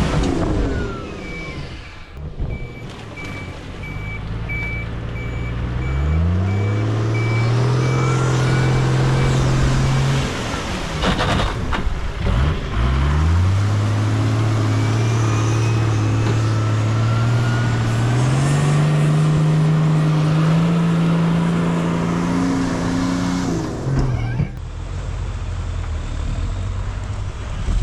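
Off-road race truck engines revving hard: the engine pitch climbs steeply twice and holds high under load, then drops away. An intermittent high beeping sounds through roughly the first third.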